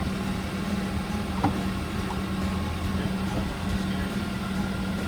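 A steady low mechanical hum, like a machine running continuously.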